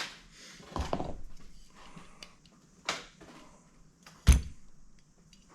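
A few knocks and clunks of objects being handled, the loudest a heavy thunk a little past four seconds in.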